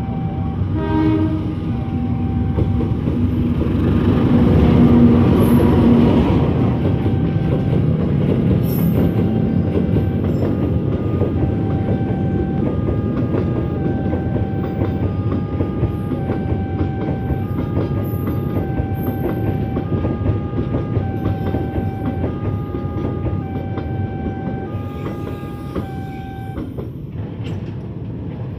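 Diesel locomotive sounding its horn as it comes through a level crossing, then a long freight train rolling past with wheel clatter and a heavy rumble. Over it the crossing's warning alarm rings in two alternating tones, about one change a second, and stops near the end.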